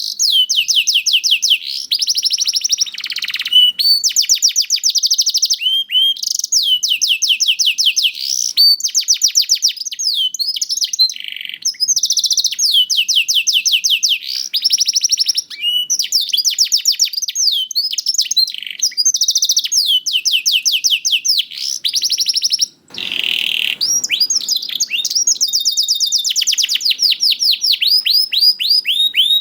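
Young domestic canary singing a continuous, high-pitched song of fast rolling trills, each made of rapidly repeated sweeping notes, with one short break about three-quarters of the way through.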